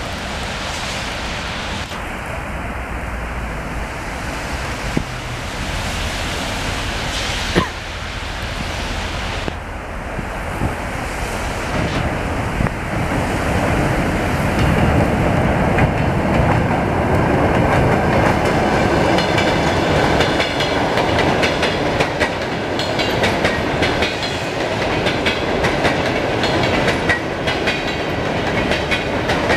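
Electric suburban trains running on the rails: a steady rumble of wheels on track with the clickety-clack of rail joints. It grows louder about halfway through, and rapid clicking follows.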